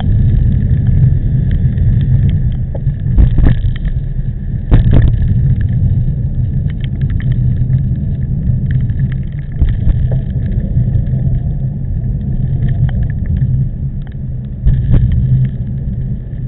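Typhoon wind buffeting the microphone of a camera riding on a road bike: a loud, steady low noise with a few sharp knocks about three and a half and five seconds in.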